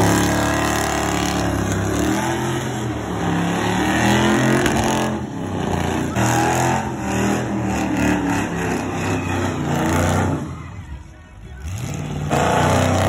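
Muscle car engine revving hard through a smoky burnout, its pitch climbing and falling as the rear tyres spin. The engine falls away briefly about three-quarters of the way through, then picks up again.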